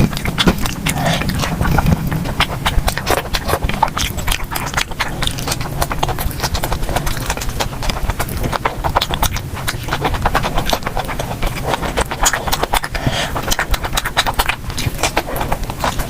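Close-miked chewing: a person eating, with a dense, rapid run of clicking mouth noises.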